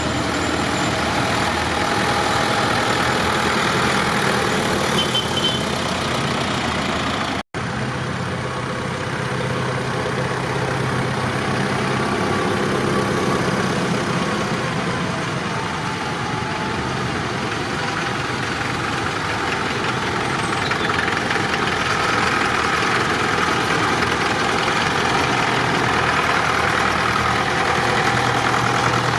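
Tractor engines running steadily at low revs. The sound drops out for an instant about seven seconds in.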